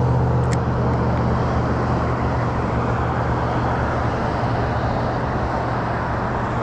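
Small boat motor running steadily, a low hum under a rushing noise, easing off slightly over the few seconds.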